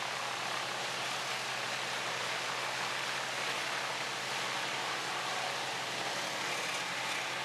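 Large whole-tree wood chipper running steadily: a constant engine hum under an even rushing noise, with no distinct impacts.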